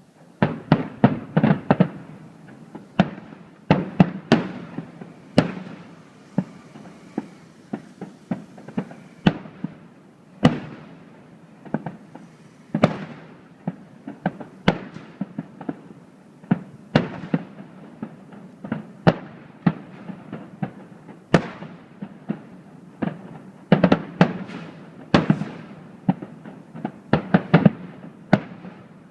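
Fireworks bursting overhead in quick succession: dozens of sharp bangs with rumbling echoes. The bangs pile up thickly right after the start and again near the end, with more scattered ones in between.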